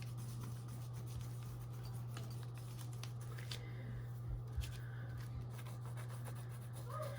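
Wax pastel crayon scribbled back and forth across paper, a faint scratchy rubbing with a few soft knocks about halfway through, over a steady low hum.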